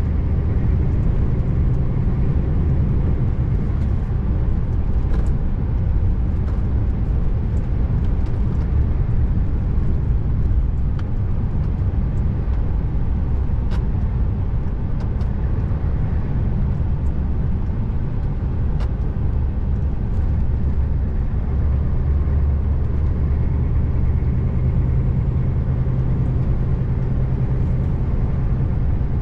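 Scania R590 V8 truck running at a steady cruise, a low engine drone with tyre and road noise from the winter road. A few faint ticks sound over it.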